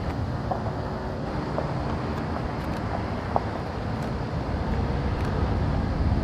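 Steady low rumble of vehicle engines and road traffic, with a brief faint tick about three and a half seconds in.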